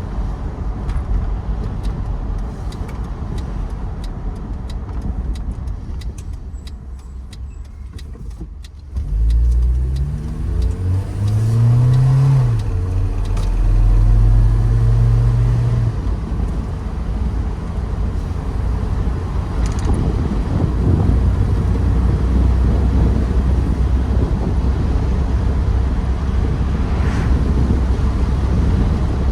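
1993 Mercedes-Benz 230 GE's four-cylinder engine on the move. A low rumble dies away over the first several seconds. Then the engine pulls away with a rising pitch, changes gear about three seconds later, and settles into steady running with road noise.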